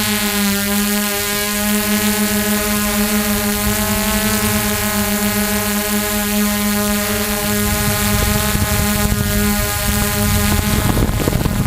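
Quadcopter drone's propellers humming at a steady pitch. Wind buffets the microphone in the last few seconds, and the main tone briefly drops out.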